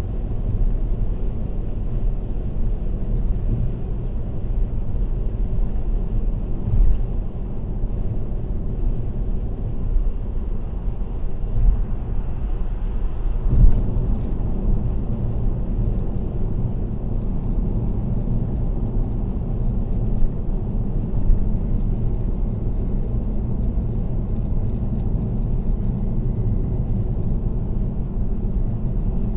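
Steady road and tyre noise of a car cruising on an expressway, picked up by a dashcam. About halfway through it grows fuller, with a high hiss added, and a few brief knocks sound.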